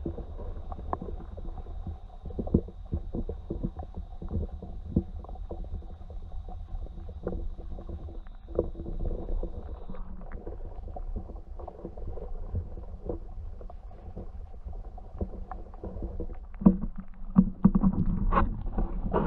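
Kayak being paddled: paddle strokes in the water with many short clicks and knocks, over a steady low rumble. The knocks grow busier and louder near the end.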